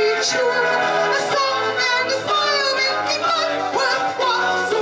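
A woman singing a vintage-style song into a microphone with instrumental accompaniment, her held notes wavering with vibrato.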